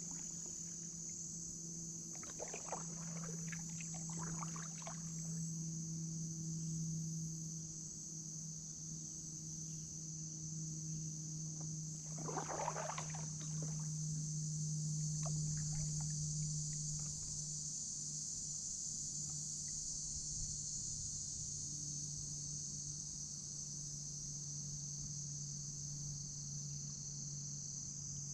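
Steady high-pitched insect chorus, with a low steady hum underneath. A few kayak paddle strokes splash in the water between about two and five seconds in, and once more, louder, around twelve seconds.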